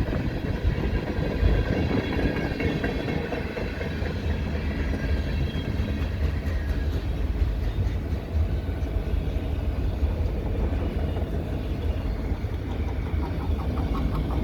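Freight cars of a CPKC freight train, including Canadian Pacific covered hoppers, rolling past in a continuous, even rumble of steel wheels on rail.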